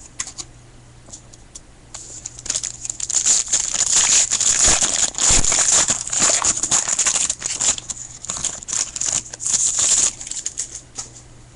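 Foil trading-card pack wrapper being torn open and crinkled by hand, a dense run of crackling from about two seconds in until about ten seconds in.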